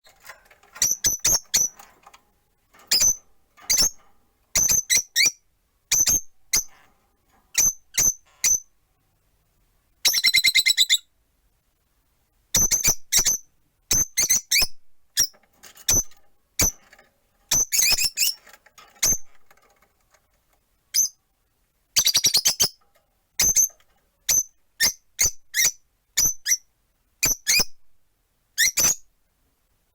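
Rosy-faced lovebirds calling: short, sharp, high-pitched chirps in quick clusters with brief pauses between. About ten seconds in, and again about twenty-two seconds in, come longer rapid trilling calls.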